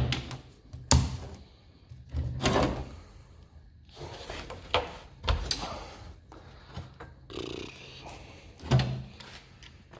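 Half a dozen irregular knocks and thumps, the sharpest right at the start and about a second in, with quiet gaps between them.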